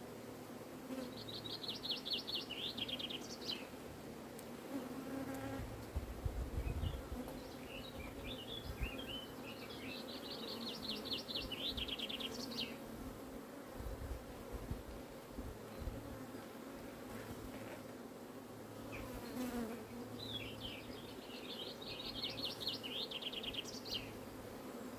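Honeybees from an open, crowded hive buzzing in a steady hum. A songbird sings three short trilling phrases, near the start, in the middle and near the end.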